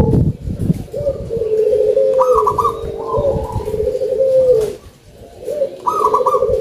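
Zebra dove (perkutut) cooing, its phrase repeated about three times, with a short lull about five seconds in.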